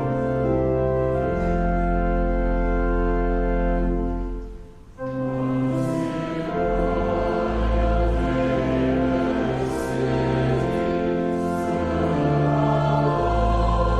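Church organ holding sustained chords, which break off briefly about five seconds in. The organ then resumes with a group of voices singing a hymn along with it.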